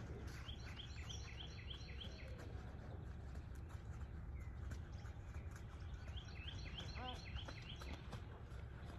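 A songbird singing a quick run of about eight repeated high chirps, twice, several seconds apart, over a steady low outdoor rumble.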